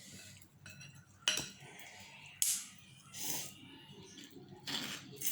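Eating noodle soup from a bowl: utensils clink sharply against the bowl about a second in, followed by three short, noisy eating sounds.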